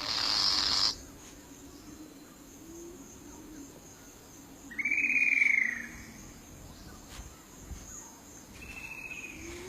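Birds calling over a faint steady insect hum in tropical forest: a short harsh rasping call at the start, a loud arched whistle about five seconds in, and a shorter falling whistle near the end.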